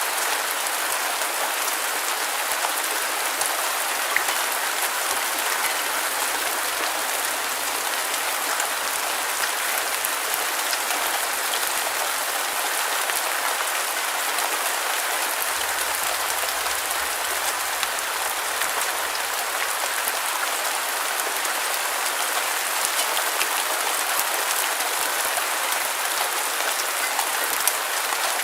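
Steady rain: an even hiss of falling drops with scattered sharper individual drop ticks, thin in the bass.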